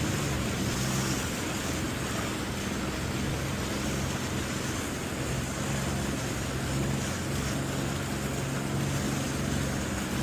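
Jet ski engine running at a steady, unchanging pitch at slow speed, with water rushing along the hull and wind on the microphone.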